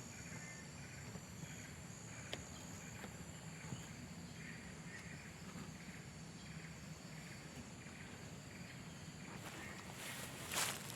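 Faint outdoor insect chorus: a steady high buzz with short chirping calls repeating about twice a second. A brief rustle or scrape comes near the end.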